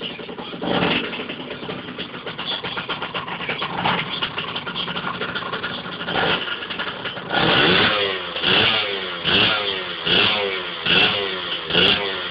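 A 125cc two-stroke motocross bike engine running with occasional throttle blips, then revved hard about six times in quick succession, roughly once a second, in the second half.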